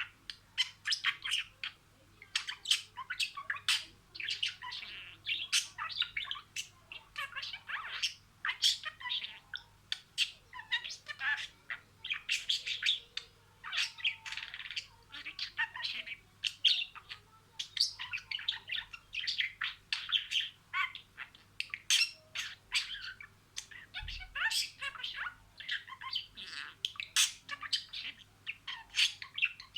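Budgerigar chattering without pause: a fast, unbroken run of short chirps, clicks and squawks.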